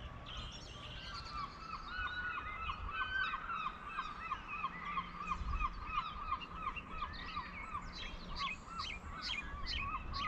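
Birds calling from the cliffs: a long run of short, harsh repeated notes at about four a second, with other higher, sharper calls joining in and growing stronger near the end.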